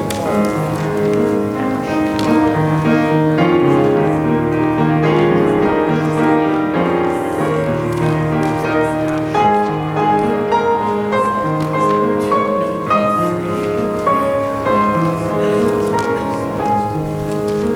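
Instrumental keyboard music, a slow piece moving through held chords and melody notes.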